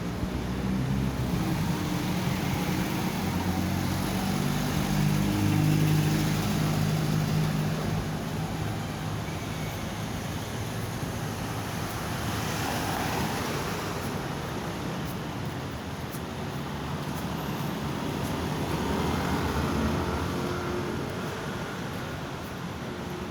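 Motor vehicle engines running on a road, swelling as vehicles pass and fading again, three times.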